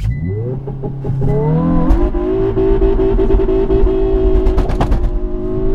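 Hyundai i20 N's turbocharged four-cylinder engine heard from inside the cabin, revs climbing for about two seconds, a quick gear change, then pulling at nearly steady revs, with a few sharp clicks near the end.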